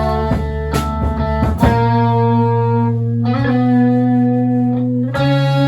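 Live band music: electric guitar chords strummed and left ringing, changing chord about a second and a half in and again near the end, in a gap between sung lines.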